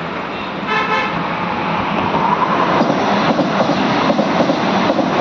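Vande Bharat Express electric train sounding a short horn blast about a second in, then its running noise building as it approaches and passes underneath, with a steady rhythmic clatter of wheels over rail joints from about three seconds in.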